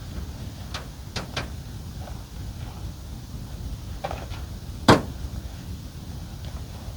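Handling noises from a soft-shell roof top tent being folded and packed up: a few light clicks in the first second and a half, more around four seconds, and a sharp knock about five seconds in, over a steady low rumble.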